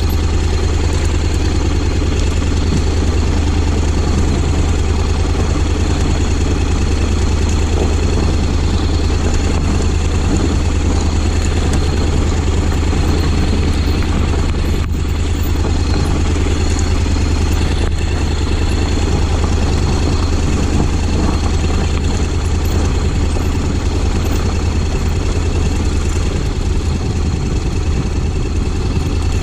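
Honda X-ADV 750's parallel-twin engine running steadily, with an even, unchanging note and no revving.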